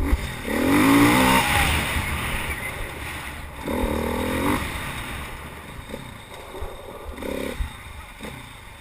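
A vehicle engine revving in three bursts, the pitch rising and falling each time: about half a second in, around four seconds in, and briefly near the seven-second mark. A short knock comes right at the start.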